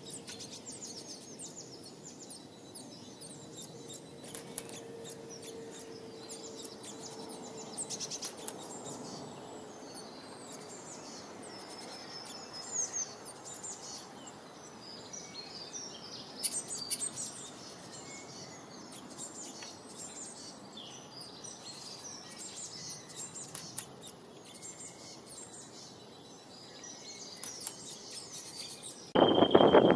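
Small birds chirping and twittering, many short high calls over a steady outdoor hiss. A faint steady hum runs under the first few seconds, and a much louder sound cuts in about a second before the end.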